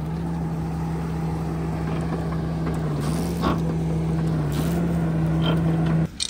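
Bobcat T86 compact track loader running with its Coneteks forestry mulcher attachment: a steady machine drone at one pitch that sags briefly twice, then cuts off abruptly near the end.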